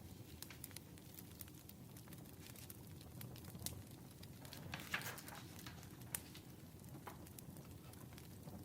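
Wood fire crackling: scattered small pops and snaps over a low steady rumble, with a brief louder flare of hissing crackle about five seconds in.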